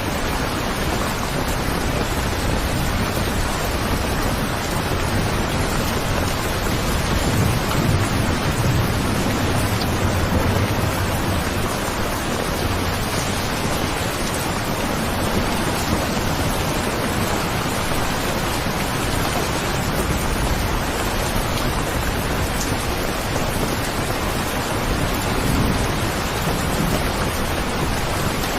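Steady rain falling, with low rumbles of thunder about eight seconds in and again near the end.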